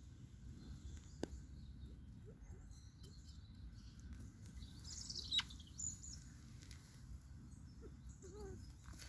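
Faint bird chirps and short calls over a steady low outdoor rumble, with one sharper chirp sweeping downward about halfway through and a few soft low calls near the end.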